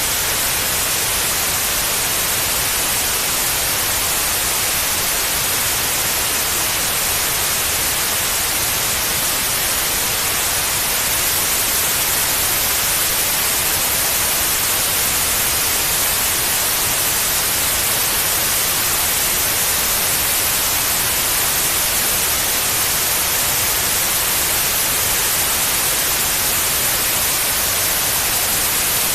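Steady, unchanging white noise: an even hiss, brightest in the high end, played as a sleep aid for babies.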